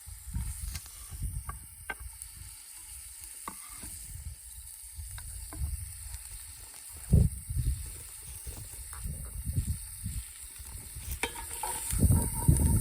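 Diced onion frying in butter in a pan over campfire coals: a steady sizzle, with small clicks and knocks and one sharp thump about seven seconds in. A low rumbling noise grows louder near the end.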